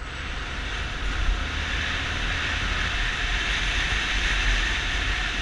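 Steady rushing road and wind noise over a low engine rumble from a vehicle in motion.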